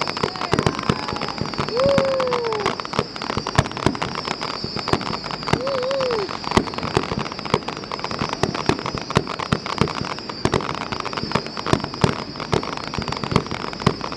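Fireworks going off in rapid, irregular succession: many sharp bangs and crackles, with two short wavering tones about two and six seconds in.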